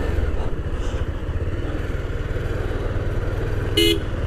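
Motorcycle engine running steadily while riding, a constant low rumble. A short beep about a second before the end.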